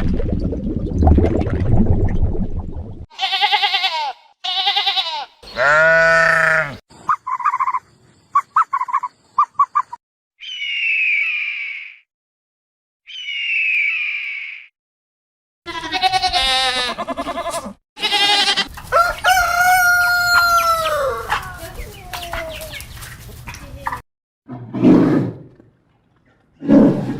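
Chickens calling: a rooster crowing in one long held call that falls at its end, with short clucks and other fowl calls in separate short bursts before it.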